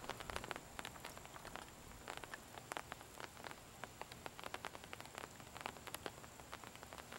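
Light rain falling, raindrops striking a nearby surface as many small irregular ticks over a faint steady hiss.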